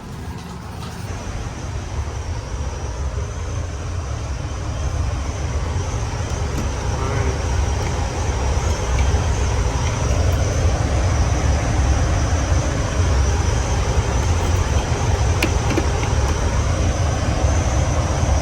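Chilled-water air handler's belt-driven blower running on a new motor and new belts: a steady low rumble of fan and moving air with a thin high whine above it, growing louder over the first half and then holding even. It runs without the earlier noise fault, which sounds quieter to the technician.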